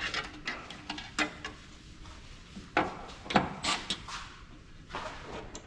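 Irregular clicks, knocks and clatter of printer parts and hand tools being handled and set down, with a few sharper knocks a little under halfway through.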